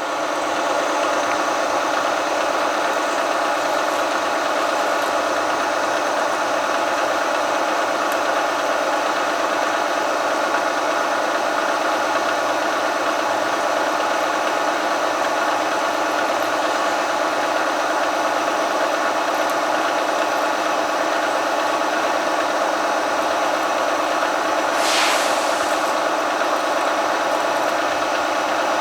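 Milling machine spindle running as a twist drill bores into a flame-hardened steel crankshaft: a steady machine hum with several held tones, building up over the first second. Near the end comes a brief higher hiss.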